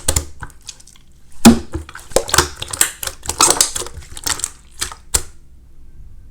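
Slime being pressed and squished by hand: a run of irregular clicky crackles, ending about five seconds in.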